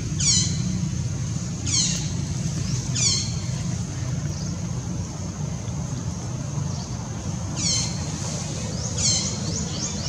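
Short high-pitched chirps that sweep downward, repeating every second or two, with a quick run of them near the end, over a steady low rumble.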